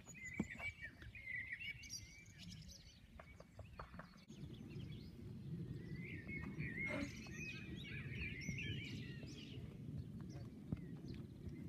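Small birds chirping and singing, over a low steady rumble that grows louder about four seconds in.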